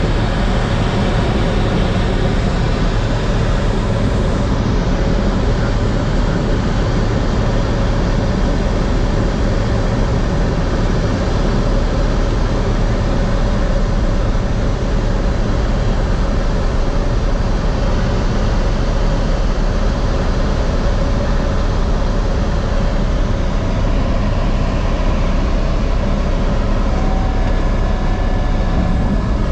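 Steady engine and propeller drone of a light aircraft in flight, heard from inside the cabin: an even rushing noise with a low, constant hum.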